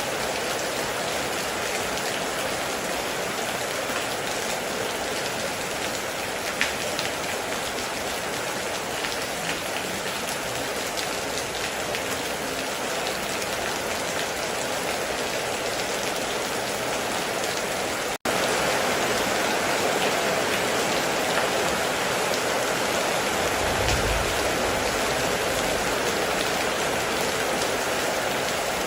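Heavy rain falling steadily on a metal roof, a dense hiss with scattered drop ticks. It cuts out for an instant about two-thirds of the way through, then comes back slightly louder. A short low rumble follows a few seconds later.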